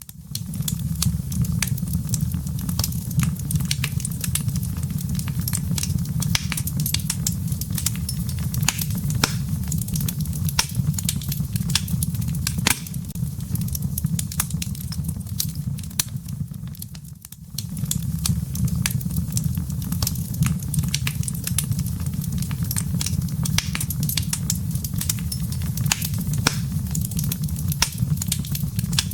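Wood fire crackling in a fireplace: a dense, irregular stream of sharp pops and snaps over a steady low rumble. The sound briefly dips just past halfway, then resumes.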